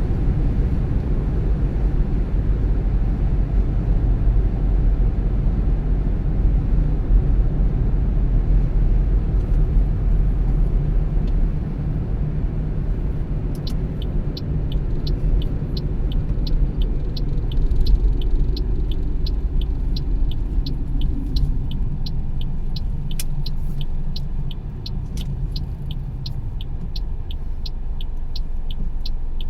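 Car driving, a steady low rumble of road and engine noise that eases somewhat in the second half. From about halfway through, a light ticking repeats evenly about twice a second.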